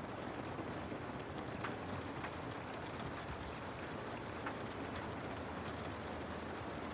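Steady rain falling, with scattered individual drops tapping on a window pane.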